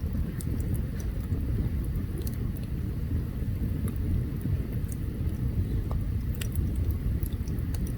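Open campfire burning: scattered sharp crackles and pops of burning wood over a steady low rumble.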